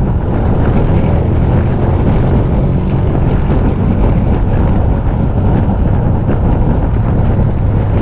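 Steady, heavy wind rumble on an action camera's microphone during a bike ride, low and even with no break.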